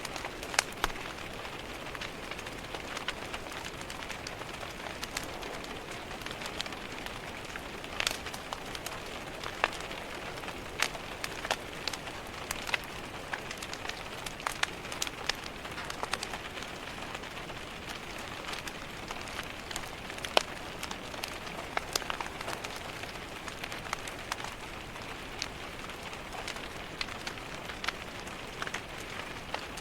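Steady rain pattering against a window, mixed with the crackle of a wood fire in a fireplace: scattered sharp pops and snaps over an even hiss.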